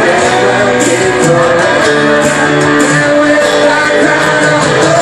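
Church worship band playing an instrumental passage led by strummed guitar, loud and steady, between sung lines of a worship song.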